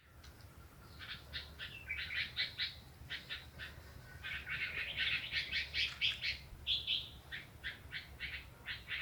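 Birds chirping: a quick, busy string of short chirps that starts about a second in and goes on in dense runs.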